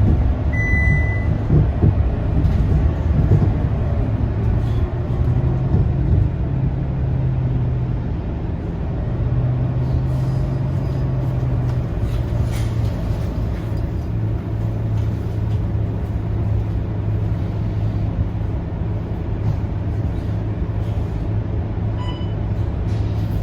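Scania K230UB city bus's five-cylinder diesel engine running as the bus drives, a steady low hum whose pitch steps up and down a few times. A short high beep sounds about half a second in.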